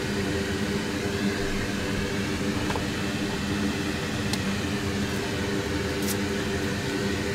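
Steady whir of an electric blower fan on the soldering bench, with a low hum in it, and a couple of faint clicks about four and six seconds in.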